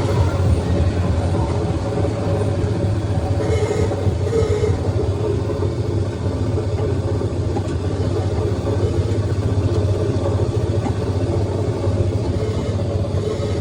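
Steady low engine rumble, running evenly throughout without revving.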